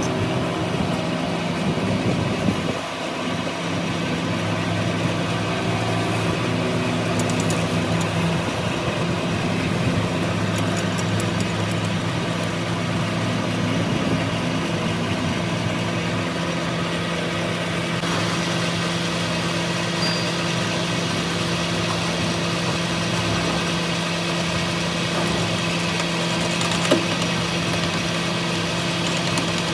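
A diesel-type engine idling steadily at an even pitch, with one short knock near the end.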